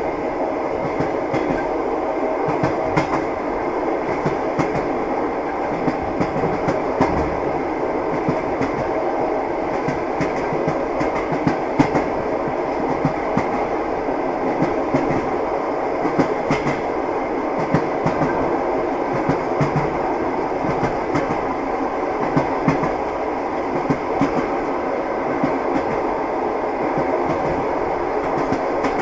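Train wheels knocking over the rail joints, with scattered clacks over a steady rolling rumble of a moving train.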